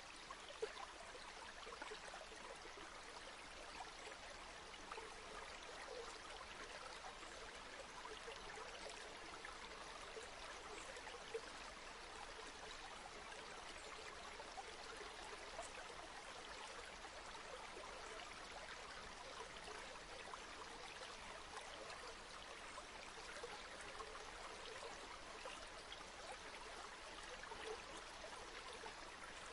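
A river flowing steadily: an even, unbroken rush of water with small splashes and trickles throughout.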